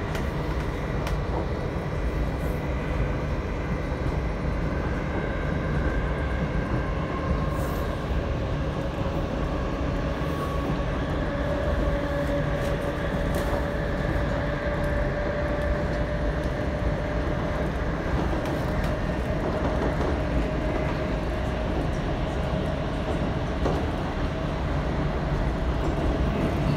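Electric passenger train heard from inside the carriage while running along the line: a steady rumble of wheels on track, with a faint whine that slowly rises in pitch.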